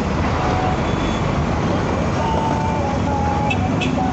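Isuzu Giga heavy truck under way: steady diesel engine and road noise while driving.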